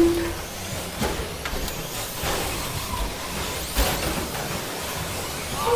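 Several 1/10-scale short course RC trucks with 13.5-turn brushless electric motors racing: a faint motor whine rising and falling over the running tyres, with a few sharp knocks.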